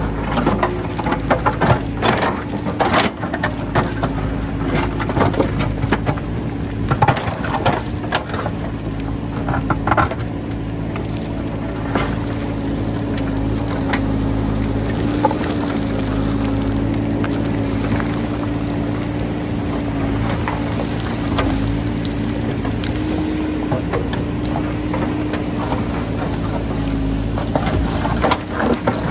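JCB backhoe loader's diesel engine running steadily under load, with sharp knocks and scrapes of the bucket working rock through roughly the first ten seconds and again near the end.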